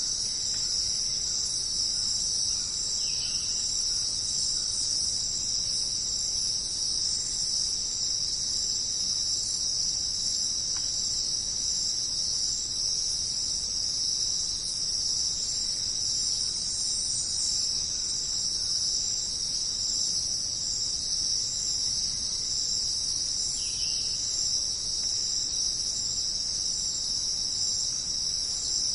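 A dense, steady, high-pitched chorus of jungle insects shrilling without a break.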